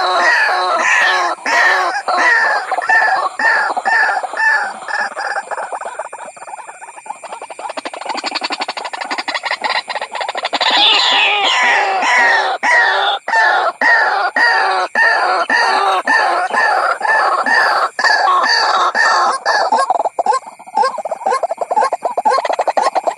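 White-breasted waterhen calling: a rapid, repeated series of loud croaking 'ruak-ruak' notes, played as a trapping lure. The notes dip quieter for a few seconds partway through and run faster near the end.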